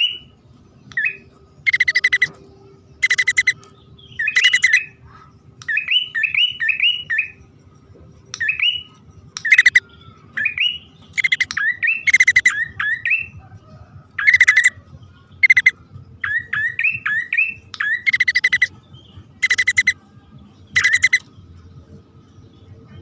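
Prinia (prenjak) lure call, a male and female calling: repeated bursts of sharp, rising chirps and buzzy trills, with short pauses between bursts.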